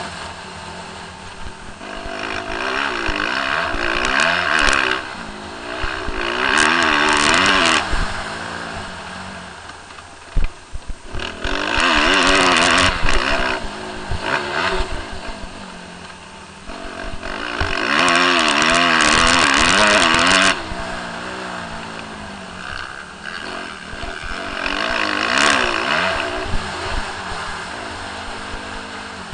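Suzuki RM-Z250 motocross bike's single-cylinder four-stroke engine being ridden on a track: about five hard throttle surges, the pitch rising and falling, with quieter stretches between. A cluster of sharp knocks comes about ten seconds in.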